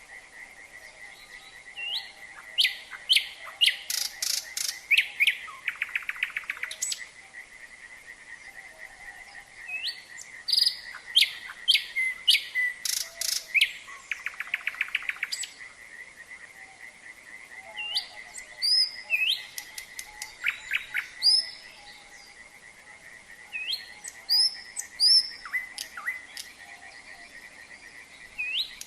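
Nightingale singing in four bouts of loud, rapidly repeated whistled notes and fast rattling trills, over a continuous steady trilling chorus of frogs.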